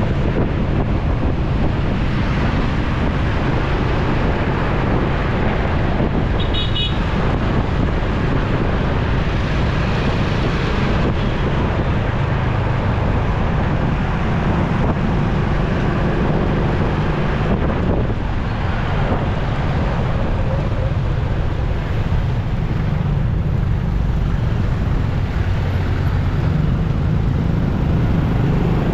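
Motorcycle riding through busy city traffic: steady wind noise on the microphone over engine and road noise from the bike and the vehicles around it. A short, high vehicle horn beep sounds about seven seconds in.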